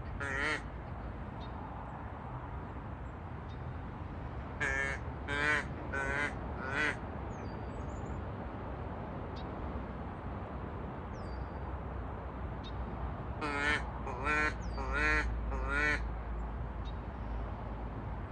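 Duck call blown in quick runs of short quacks: four about five seconds in, then five more about thirteen seconds in, each with a wavering pitch. Faint bird chirps come between the runs.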